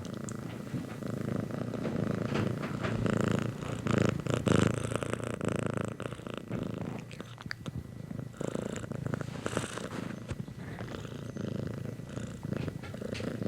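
Domestic cat purring, a continuous low rumble with some light clicks mixed in.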